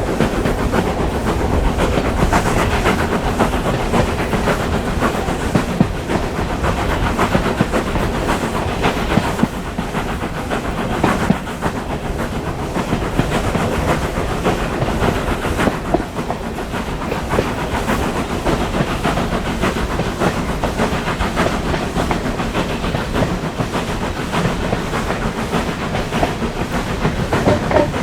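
A steam-hauled passenger train running along the track: a steady rumble with wheels clicking and clattering over the rail joints.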